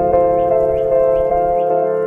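Solo piano playing a simple, slow melody, its notes struck about three times a second and left to ring into one another.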